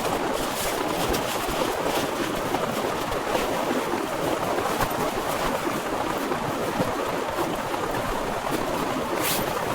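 Heavy rain falling steadily, with scattered sharper taps of drops close by and one louder tap near the end.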